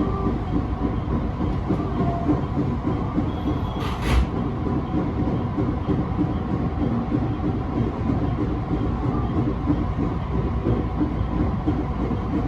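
Electric commuter train running at speed, heard from inside the car: a steady low rumble of wheels on rail, with one sharp clack about four seconds in.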